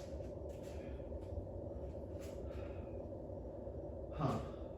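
A man breathing audibly between sets over a steady low room hum, then a short "huh" falling in pitch near the end.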